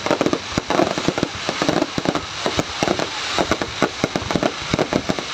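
Fireworks going off in a dense, continuous run of sharp cracks and bangs, many a second and without a break.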